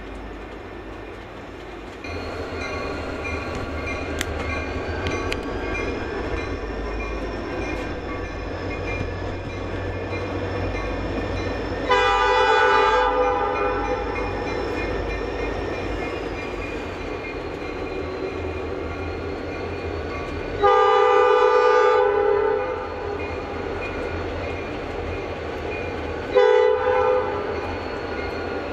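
Train running with a steady low rumble, its horn sounding three blasts over it: a long one about twelve seconds in, another long one later, and a short one near the end.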